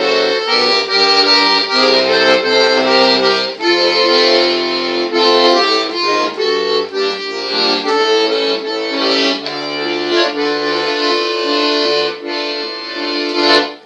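Accordion playing an instrumental interlude between sung verses: a melody over held bass notes and chords.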